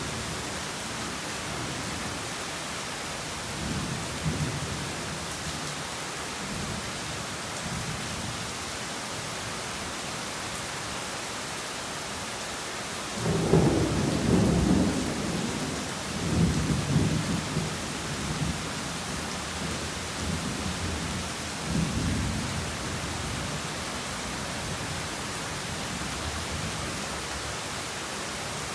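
Heavy rain falling steadily, with low thunder rumbles: faint ones early, then a loud peal about halfway through that rolls on in several waves for about ten seconds before dying away.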